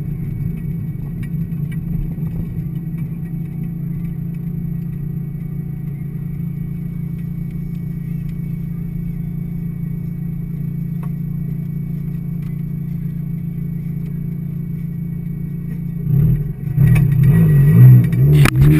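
1990 Mazda Miata's 1.6-litre four-cylinder engine running steadily at low revs, heard from inside the cabin. About sixteen seconds in, louder uneven knocks and rubbing take over as a hand grabs the camera.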